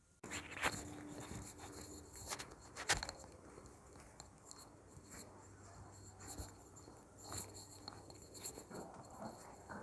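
Faint handwriting sounds: light scratching with several sharp taps, the two loudest taps near the start and about three seconds in.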